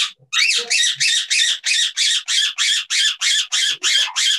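Parrot squawking loudly in a steady, rhythmic run of harsh calls, about three a second.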